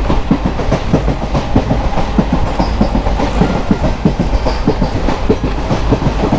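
Moving passenger train: a steady low rumble with a rapid, uneven clatter of wheels knocking over the rail joints.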